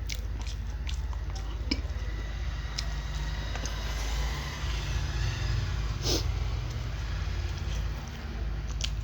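Close-up chewing of a samosa, with scattered sharp crunchy bites, the loudest about six seconds in. A steady low rumble runs underneath.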